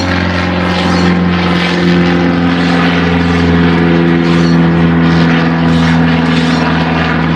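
A motor or engine running steadily, a loud low hum with overtones.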